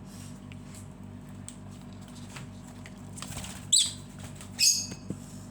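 Two short, high-pitched lovebird calls about a second apart in the second half, over a steady low hum and faint scattered ticks.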